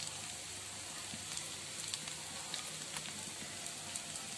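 Chicken, onion and potato filling sizzling steadily in hot oil in an aluminium pan, with small crackles here and there.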